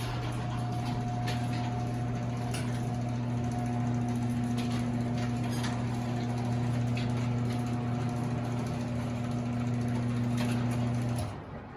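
Steel Craft chain-drive garage door opener running as it opens the door: a steady motor hum with a light rattle from the chain, stopping suddenly about eleven seconds in.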